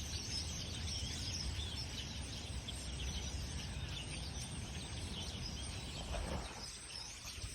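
A large flock of small birds calling together in the trees: a dense, continuous chatter of many overlapping short chirps. A low steady rumble runs underneath.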